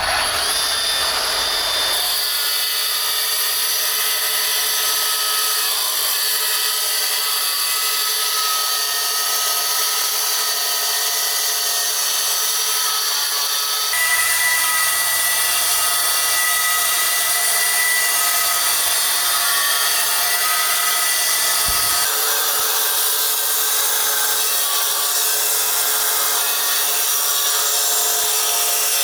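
Electric power tool grinding stone with a steady high whine. The tone shifts abruptly a few times.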